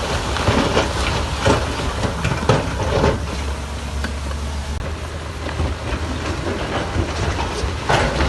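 Heavy earthmoving machine at work: a diesel engine running steadily, with irregular metallic clanks and knocks, several in the first three seconds and one strong one near the end.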